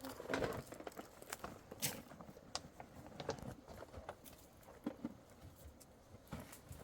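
Irregular light knocks and clicks, uneven in spacing, a little busier in the first two seconds.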